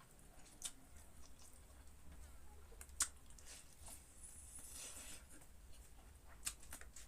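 Faint eating sounds: chewing and mouth noises with a few sharp clicks, the loudest about three seconds in.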